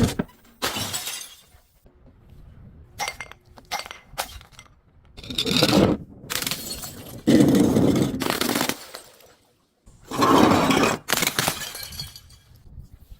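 Glass bottles breaking and crunching in a series of separate bursts, with sharp clinks of glass between them.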